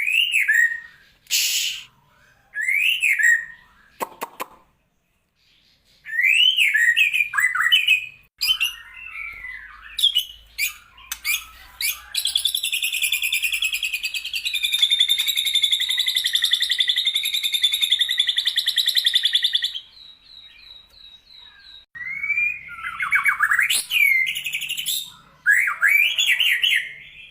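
White-rumped shama (murai batu) singing a varied song of loud rising-and-falling whistled phrases, with mimicked phrases of cucak jenggot (grey-cheeked bulbul) and lovebird. In the middle it holds a long, rapid chattering trill for about eight seconds, and there is a brief pause before it.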